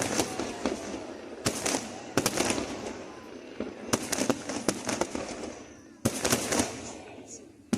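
Fireworks display: aerial shells bursting with sharp bangs at irregular intervals, several close together, the loudest about six seconds in. Each bang is followed by crackling that dies away.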